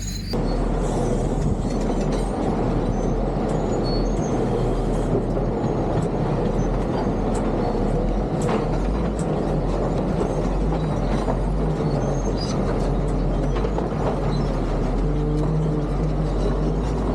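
Caterpillar D7 crawler bulldozer running, its diesel engine under steady load with scattered clanks from the steel tracks. A higher steady whine joins near the end.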